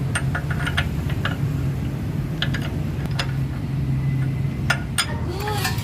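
Scattered light metallic clicks and taps over a steady low hum.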